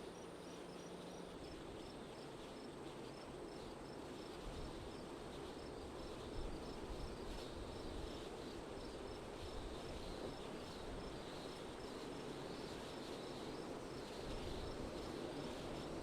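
Wind blowing steadily with slow swells and a low gusting rumble, with a faint insect, likely a cricket, chirping evenly a few times a second in the background.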